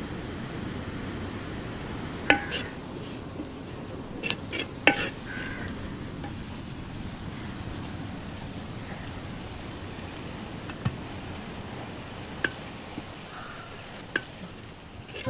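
Mussel meat, shallots and green chillies frying in oil in a clay pot, a steady sizzle, while a wooden spatula stirs and knocks sharply against the pot about six times.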